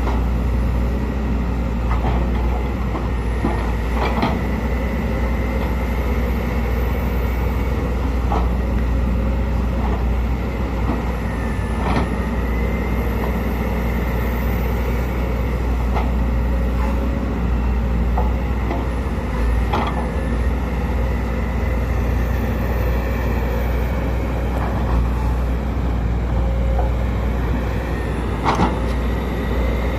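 Sumitomo SH210LC hydraulic excavator's diesel engine running steadily, with a wavering hydraulic whine over it and a sharp clank every few seconds.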